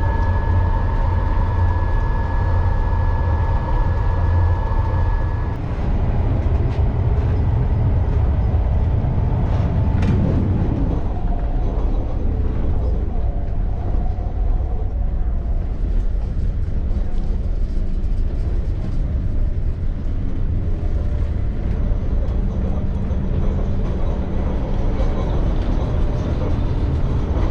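ÖBB Railjet passenger train running along the track: a steady low rumble of the wheels and running gear, with a thin high whine that stops about five seconds in and a single click near the middle.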